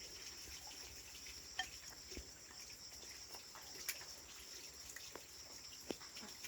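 Faint steady high-pitched insect chirring, with a few soft clicks scattered through it.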